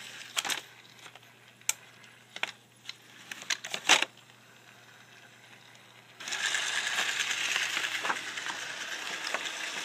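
Roomba-based sumo robot on a paper sheet: a few sharp clicks and knocks, then about six seconds in a steady whirring hiss starts as its drive motors run and its wheels scrub on the paper, which it does not grip well.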